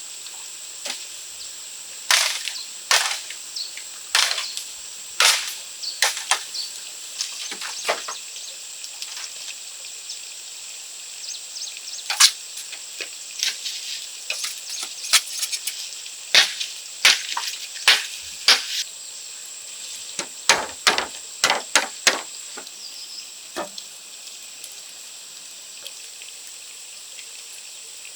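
Sharp, irregular knocks in two runs of a dozen or so, like a tool striking wood, over a steady high-pitched drone.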